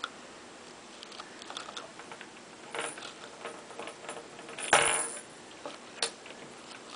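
Budgie bathing in a bowl of spinach leaves: scattered small clicks and leaf rustles, with a brief louder flurry a little under five seconds in and smaller ones near three and six seconds.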